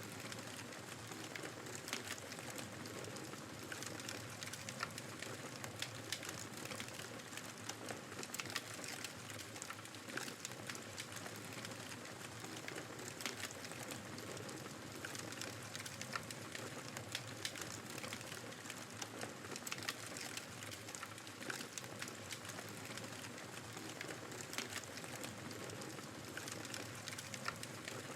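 Wood fire crackling in a fireplace, with frequent small sharp pops scattered irregularly, over a steady rushing blizzard wind.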